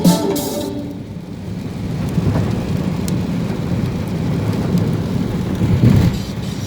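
Thunder rumbling low under steady rain.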